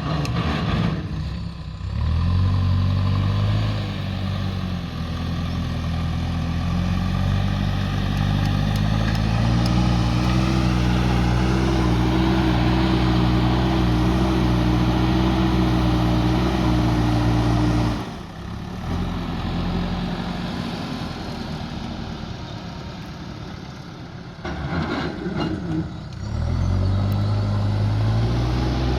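JCB 3DX backhoe loader's diesel engine working hard, revving up under load and holding high revs, then dropping away suddenly about two-thirds through to a quieter stretch before revving up again near the end.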